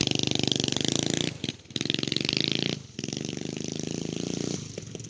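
Minibike's 212cc single-cylinder engine running with a fast, even exhaust pulse. It drops off briefly twice as the throttle comes and goes.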